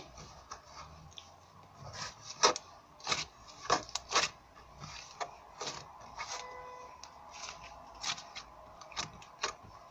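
Hand-kneaded slime with a texture like kinetic sand being squeezed and stretched, making irregular small clicks and squelches.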